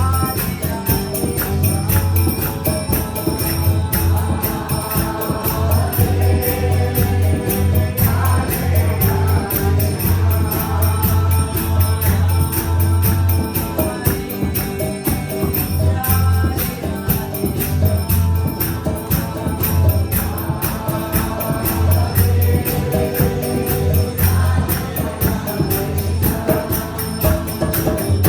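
Upbeat kirtan music: voices chanting a devotional mantra over a sustained low drone, with jingling percussion keeping a fast, even beat.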